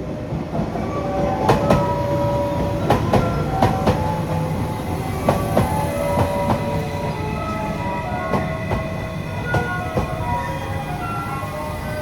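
Train running along the rails at the station: wheels clacking over rail joints, with short metallic squeals over a steady low rumble.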